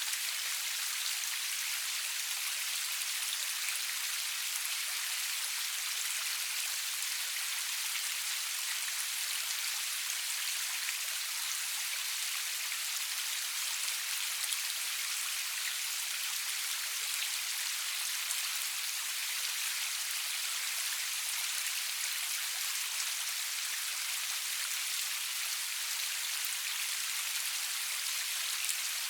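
Steady rain falling, a continuous even hiss of drops with no thunder and no music.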